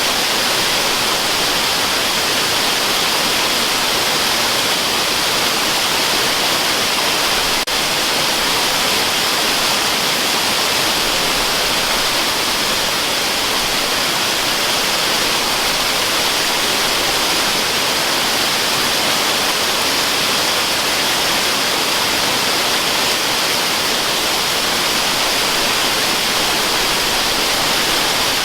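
Waterfall rushing in a steady, unbroken hiss, played as white noise for sleep, brightest in the upper range. A brief click and a momentary dip in level come about eight seconds in.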